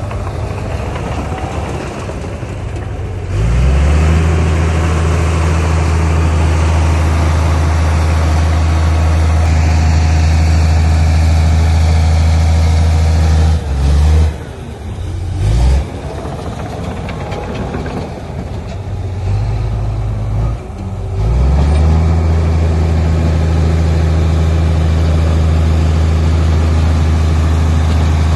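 Heavy diesel engine of earthmoving equipment running under changing throttle: it revs up a few seconds in and holds, drops back briefly twice near the middle, eases off for a couple of seconds, then revs up again and holds steady.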